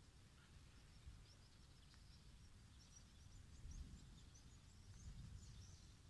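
Faint ambience: distant small birds give scattered, high, short chirps over a low, steady rumble.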